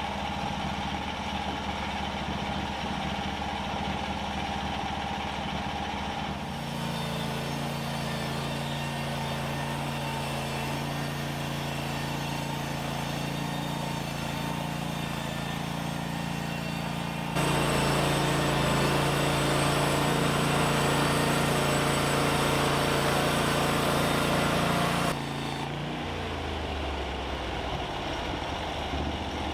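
Portable sawmill's gas engine running steadily. It speeds up about six seconds in, then runs louder with a rushing noise for about eight seconds in the middle, then drops back to a lower idle near the end.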